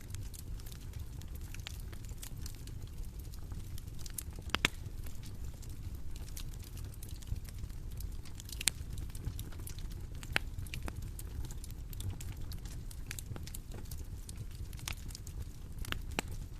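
Wood fire crackling: a steady low rumble with irregular snaps and pops, one sharper pop about four and a half seconds in.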